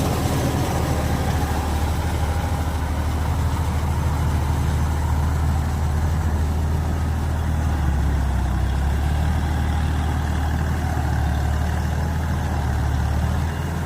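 Massey Ferguson tractor's diesel engine running with a steady low hum.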